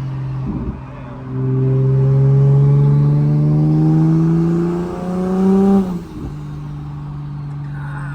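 Big-turbo Toyota Supra Mk5's B58 turbocharged inline-six, heard from inside the car, making a hard pull. The engine note rises steadily in pitch for about four seconds, then cuts off abruptly as the driver lifts, dropping back to a steady cruising drone.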